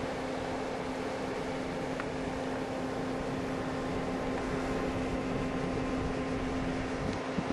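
Steady mechanical hum: a constant low tone and a fainter higher tone over an even rush of noise, like a fan or motor running.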